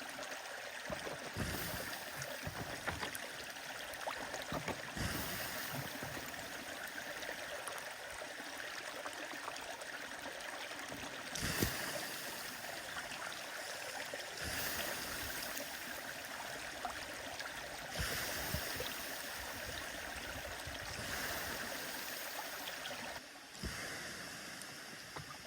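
A stream running steadily, with the scattered pops and crackles of a wood fire over it and one sharper pop about eleven seconds in.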